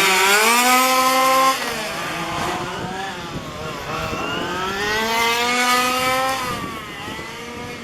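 Small petrol two-stroke engines of 1:5 scale RC race cars revving hard on a track. One engine climbs in pitch and holds high before dropping away about a second and a half in, then another winds up in pitch and falls off near the end.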